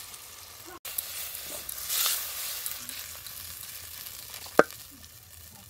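Fried onion, garlic, chilli and tomato sizzling in a clay pot, then hissing as the hot mixture is tipped out onto a stone grinding slab. The hiss swells about two seconds in and fades, and there is one sharp knock near the end.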